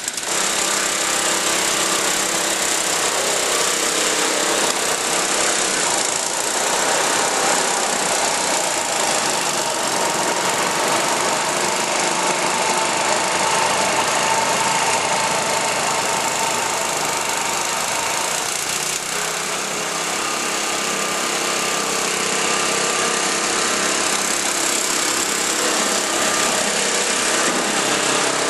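Craftsman snow blower's small engine running steadily, warming up just after a cold start, with a brief dip about two-thirds of the way through.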